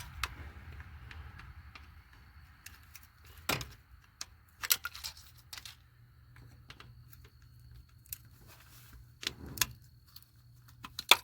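Hand tools clinking and knocking against metal engine parts: scattered sharp clicks with a few louder knocks, over a faint low steady hum.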